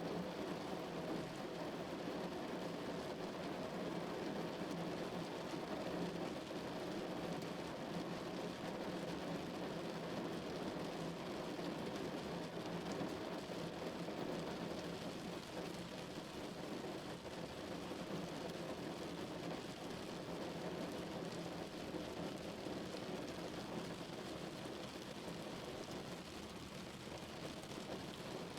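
Steady rain drumming on a car's roof and windows, heard from inside the car.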